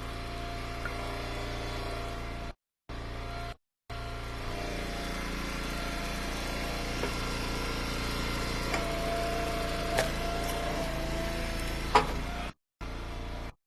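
Wood splitter engine running steadily, with a couple of sharp cracks near the end. The sound cuts out completely for short moments several times.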